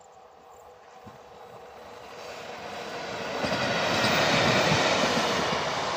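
Indian Railways WAP-4 electric locomotive hauling a passenger train, approaching and passing. Its rumble and wheel-on-rail noise grow steadily louder and peak about four seconds in as the locomotive goes by.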